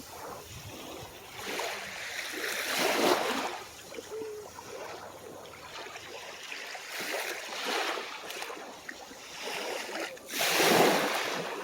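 Small waves breaking and washing onto the shore, each swelling and fading over a second or two. There are three surges, and the loudest comes near the end.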